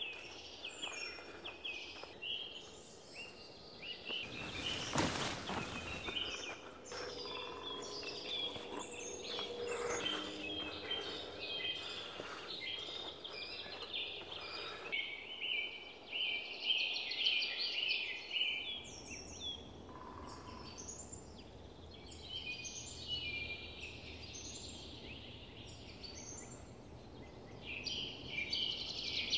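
Small birds chirping and calling in a forest, many short calls and trills overlapping throughout, with a brief rush of noise about five seconds in.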